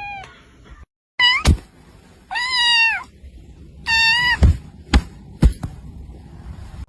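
Domestic cat meowing three times: a short rising meow, then a longer drawn-out one, then a third. Several sharp knocks fall among and after the meows.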